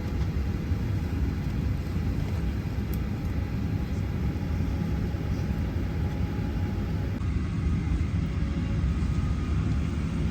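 Steady low rumble of an airliner cabin: engine and air-system noise, with a faint steady hum for the first several seconds.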